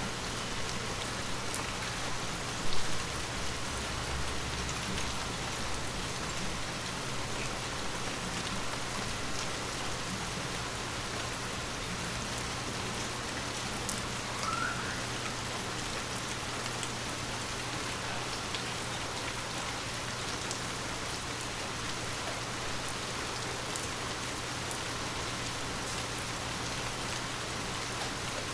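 Steady rainfall with scattered individual drops ticking on a surface. There is one louder thump about three seconds in.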